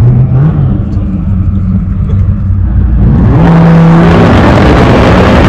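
Car engine running, then revving hard from about three seconds in: a loud rush of engine noise with a rising pitch that stays loud to the end.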